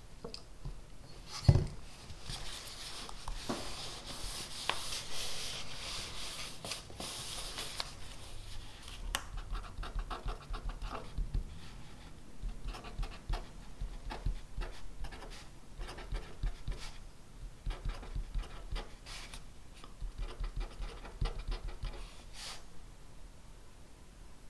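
Pen writing on paper at a desk: scratchy strokes with small taps and clicks. A single sharp thump about a second and a half in is the loudest sound.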